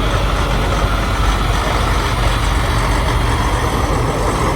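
Big-rig diesel truck engines running, a loud steady rumble with no sudden events.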